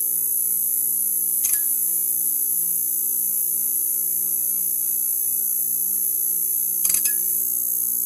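Neon sign humming and buzzing steadily: a low electrical hum under a constant high hiss, with two short clicks, one about a second and a half in and one near the end.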